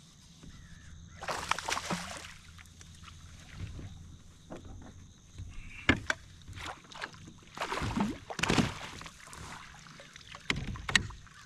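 Water splashing and sloshing against a fishing kayak, with several sharp knocks on the hull.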